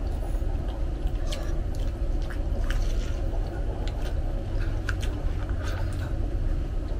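Close-up chewing with scattered wet mouth clicks and smacks, over a steady low background hum.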